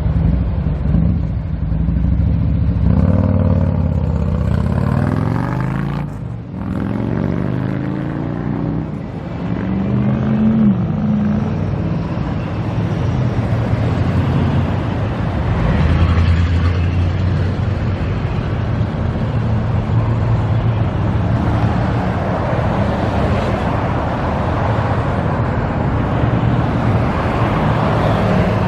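Road traffic: car engine and tyre noise running steadily, with a vehicle passing by a few seconds in.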